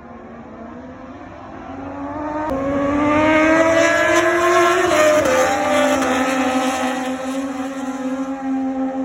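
Racing motorcycle engine at high revs: the engine note grows louder and climbs in pitch, drops abruptly about five seconds in, then runs on at a steadier, lower pitch.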